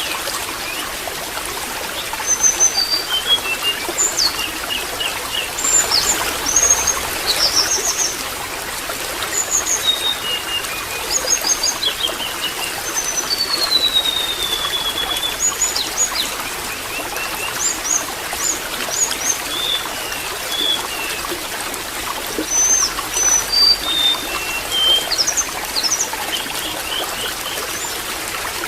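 Water trickling and splashing steadily, with small birds chirping, trilling and whistling over it throughout, including one long sweeping whistle about halfway through.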